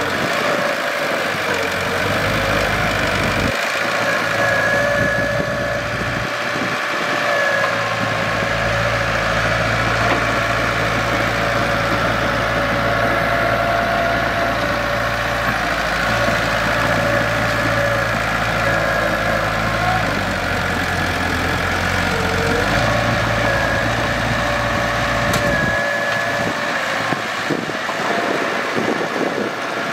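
Mitsubishi BD2G bulldozer's diesel engine running steadily as the machine works. A deeper low rumble comes in about two seconds in, shifts partway through, and drops away near the end.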